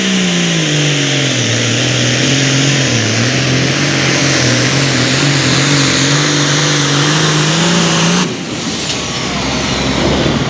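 A pulling vehicle's engine running hard under load. Its pitch drops over the first second or two, then holds wavering and lower as the sled bogs it down. It cuts off abruptly about eight seconds in.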